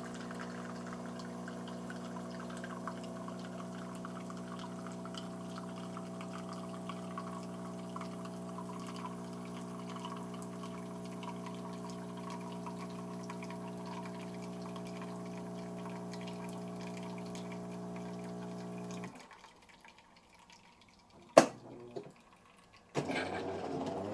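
Jura C9 automatic coffee machine brewing: its pump hums steadily while coffee pours into the cup. The pump cuts off about 19 seconds in, a sharp click follows a couple of seconds later, and near the end the machine's motor starts a mechanical whirr as the brewing cycle finishes.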